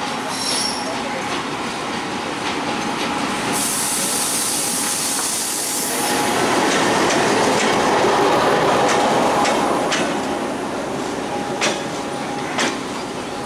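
Diesel locomotive hauling a passenger train into a station and passing close by. Its running noise swells as the locomotive goes past, about six to ten seconds in, then the coaches roll by with two sharp wheel clacks near the end.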